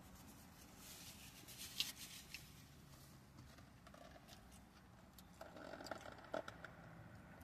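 Faint chewing of a chicken Big Mac: soft, scattered mouth clicks and crackles, bunched about a second in and again near the end.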